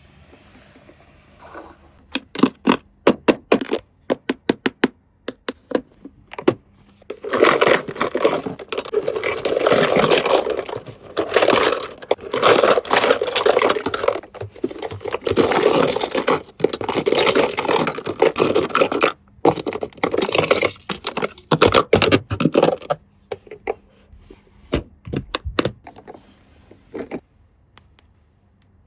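Plastic toys and packaging handled close to the microphone. First comes a quick run of clicks and taps, then a long stretch of crinkling and scraping, then scattered clicks again near the end.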